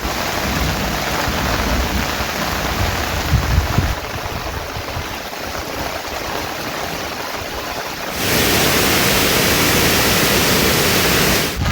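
Steady rain falling. About eight seconds in, it changes abruptly to a louder, brighter, even rush of water, which cuts off suddenly near the end.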